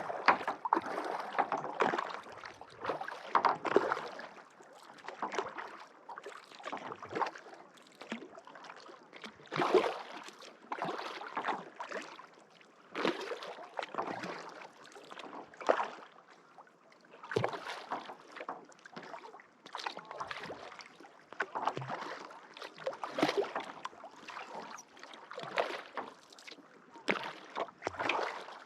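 Kayak paddle strokes: the blade splashes and swishes through lake water about every two to three seconds, a steady rhythmic paddling.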